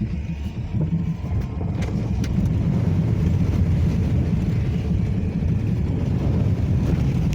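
Car driving through a deep rain-filled mud puddle on a dirt road, heard from inside the cabin: a low rumble of tyres, water and engine that grows louder about two seconds in, with a few light knocks near the start.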